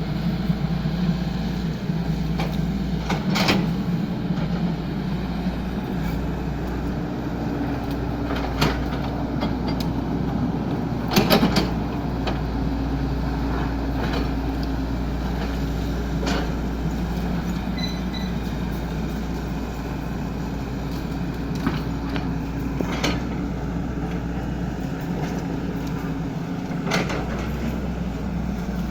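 XCMG 75 excavator's diesel engine running steadily as it works, with a sharp knock or clank every few seconds.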